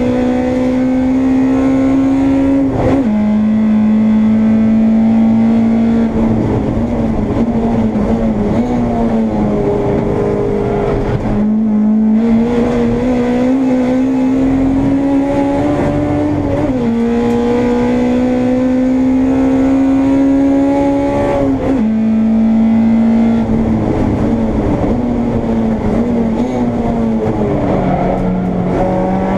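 Honda Integra race car's four-cylinder engine heard from inside the car, pulling hard with its pitch climbing steadily and dropping sharply at each gear change, four times over, with rougher, uneven stretches of lifting off and changing down in between.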